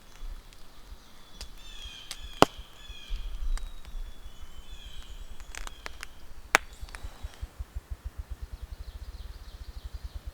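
Forest birdsong with two sharp knocks, about four seconds apart. In the second half comes a low, rapid thumping that speeds up toward the end.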